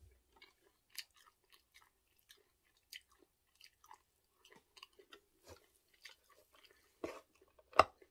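Faint close-up chewing of seasoned dried shredded squid (jinmichae), a string of small soft clicks and crackles. About seven seconds in come a few louder sharp clicks as a metal spoon knocks against the frying pan when stirring begins.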